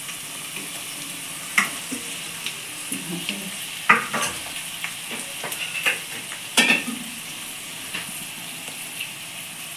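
Fish roe frying in hot oil in a nonstick kadai: a steady sizzle, broken by a few sharp clinks of metal utensils against the pan, the loudest about four seconds in and again near seven seconds.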